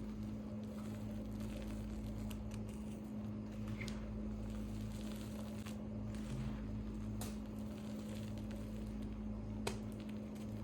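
Gym chalk reforms and chunks being crushed by hand into powder: soft crunching and crackling with a few sharper cracks, over a steady low hum.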